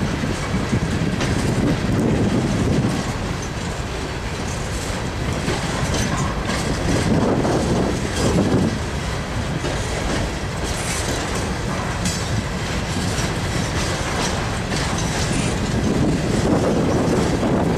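Freight train of open-top hopper cars rolling past: a steady rumble of steel wheels on rail, with repeated clicks as the wheels run over the track.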